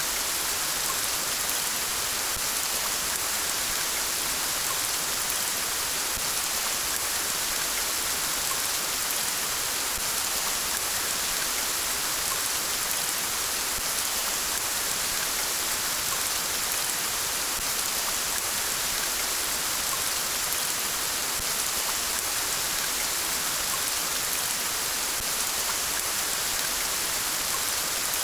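Steady rain falling, with a fine patter of drops and an even hiss.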